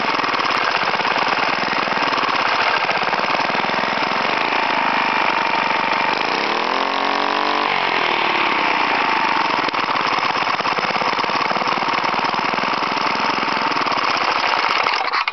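Suffolk Punch mower's small four-stroke Villiers engine running, its speed swinging up and back down about halfway through. It cuts out near the end as it is stopped by hand, having no kill switch.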